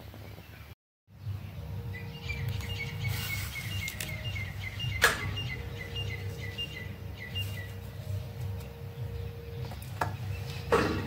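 A bird chirping in a quick run of short repeated notes over a steady low hum, after a brief dropout about a second in. A sharp knock about five seconds in is the loudest sound, with a couple of softer handling knocks near the end.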